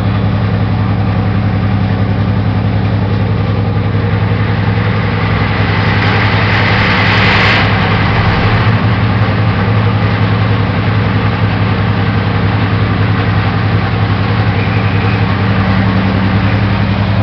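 Class 55 Deltic diesel locomotive's two Napier Deltic two-stroke opposed-piston engines idling with a steady low throb. A hiss builds from about four seconds in and cuts off suddenly at about seven and a half seconds.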